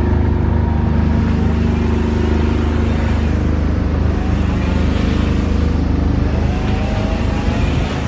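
Class 31 diesel-electric locomotive's English Electric V12 engine running steadily, a deep, even drone with no speech over it.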